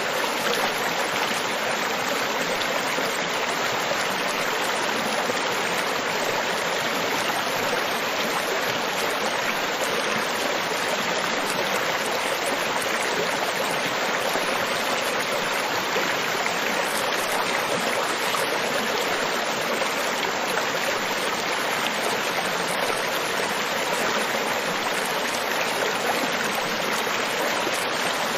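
Steady rushing of water, a continuous wash of surf on a beach, even in loudness with no separate wave surges standing out.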